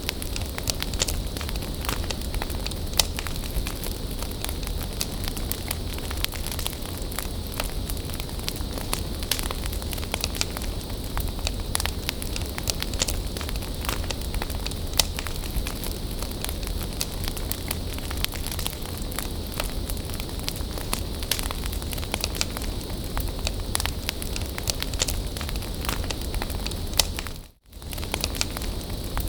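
Wood fire crackling and popping with irregular sharp snaps over a steady hiss of burning. The sound cuts out for a moment near the end, then resumes.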